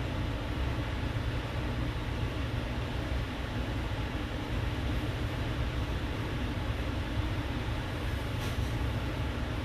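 Steady low rumble and hiss of room background noise, with one faint brief scrape about eight and a half seconds in.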